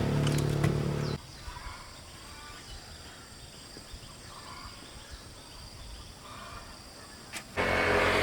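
An engine running steadily that cuts off abruptly about a second in, leaving quiet outdoor ambience with faint bird calls; a loud engine sound cuts back in near the end.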